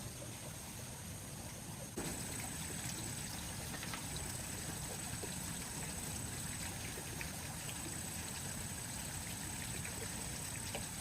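Shallow water trickling and running, with a steady high-pitched buzz over it and scattered small ticks. The sound steps up suddenly about two seconds in.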